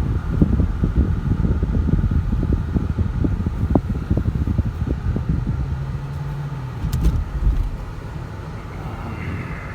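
Road and tyre noise inside the cabin of a moving 2006 Lexus LS 430: a low rumble with many small knocks from the road surface, growing quieter over the last couple of seconds.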